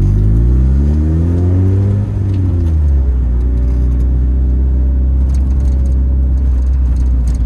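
1992 Mazda Miata's 1.6-litre four-cylinder running through an ISR aftermarket exhaust, revving up over the first two seconds, dropping back, then running steadily at low revs as the car creeps forward.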